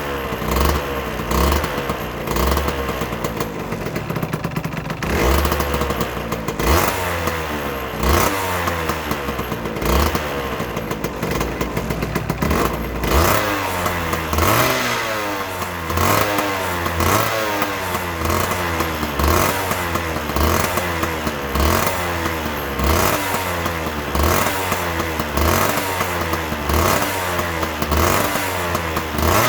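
2008 Aprilia RS125's single-cylinder two-stroke engine running and being revved. The revving is uneven at first, then settles about halfway in into regular short blips, each rising and falling in pitch, roughly one a second.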